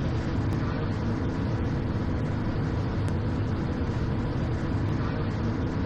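Steady cockpit noise of a Cessna Citation XL jet on short final: an even rush of engine and air noise from its twin Pratt & Whitney PW545 turbofans at approach power, with a low hum and no sudden sounds.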